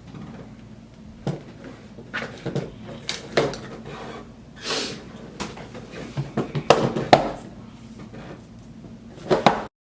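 Handling noises from lacing a roller skate boot: scattered knocks, clicks and rustles, with a longer swish about halfway as the lace is pulled through. The sound cuts off abruptly just before the end.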